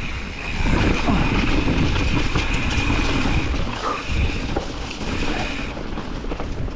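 Mountain bike rolling fast down a rough rocky trail: the tyres rumble over the rock and the bike rattles with many small knocks, over a steady high buzz.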